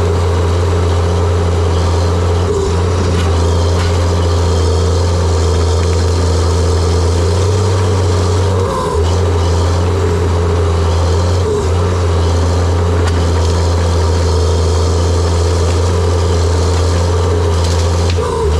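Diesel engine of a John Deere 700J-II crawler dozer running steadily with a low hum that briefly dips four times.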